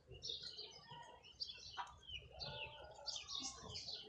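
Small birds chirping, many short high chirps in quick succession, with a sharp click about a second and a half in.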